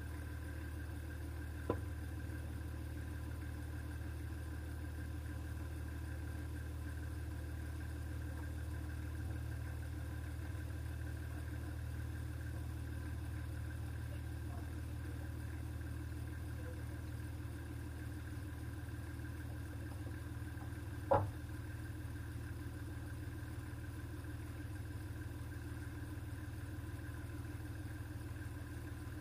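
Toyota Land Cruiser engine running steadily, a low even drone, with a sharp knock just under two seconds in and a louder knock about twenty-one seconds in.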